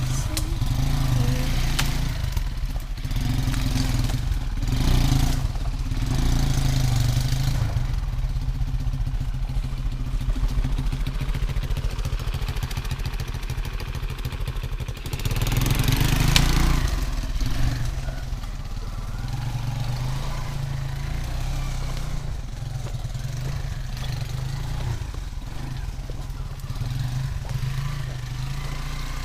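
Engine of a homemade two-wheel-drive off-road motorcycle running at low revs as it is worked through dense undergrowth, with a louder surge about halfway through.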